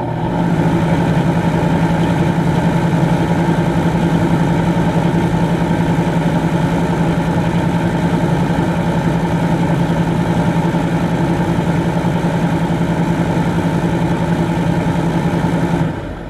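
Electric fan running with a steady motor hum and whirr. It picks up speed just after the start, then holds steady, and the level falls away right at the end.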